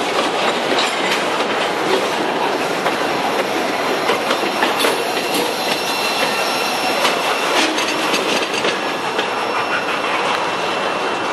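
Freight train tank cars rolling slowly past, the steel wheels clicking over the rail joints with a thin, high wheel squeal in the middle; the last car goes by and the sound eases slightly near the end.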